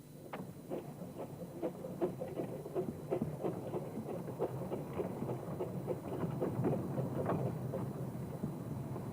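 Narrow-gauge steam train running past, a rapid, uneven run of clicks and clanks over a low rumble, starting suddenly.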